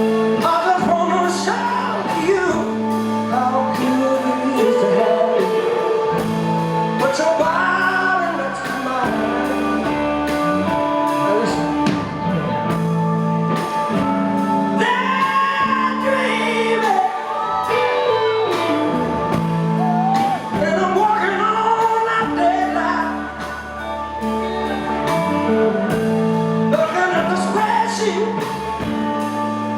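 Live rock band playing, with a male lead vocalist singing a sliding melody over sustained chords and drums, heard in a large hall.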